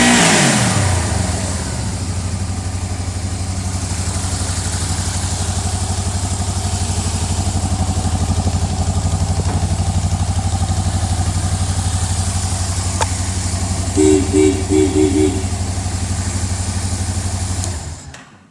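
Yamaha XVZ 1200 Venture Royale's V4 engine dropping back from a rev and settling into a steady idle, then shut off near the end. About three-quarters of the way through, four short beeps sound over the idle.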